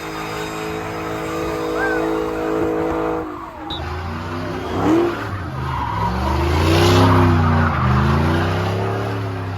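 Car engine held at steady high revs, then revved up and down repeatedly over tire squeal and skidding, as in a burnout or donuts. The tire noise is loudest a little past the middle.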